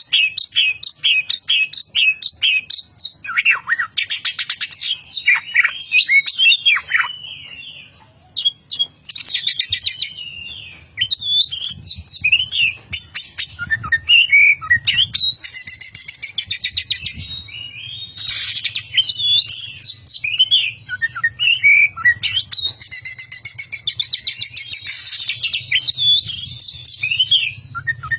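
Oriental magpie-robin (kacer) in full song: a long, varied run of quick repeated chirps and sharp whistled notes broken by dense buzzy rattling phrases, the bird's mimicry of lovebird chatter.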